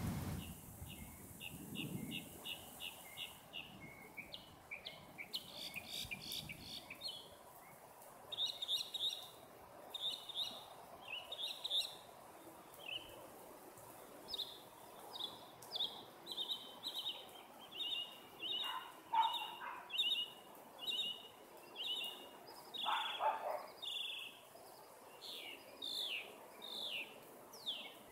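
Birds chirping: runs of short, quickly repeated high notes from several birds. Two louder, lower calls slide downward in pitch about two-thirds of the way through.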